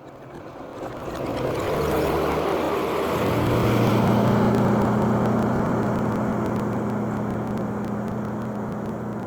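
An engine running steadily, its hum settling onto a lower, steady pitch about three seconds in, then easing off near the end.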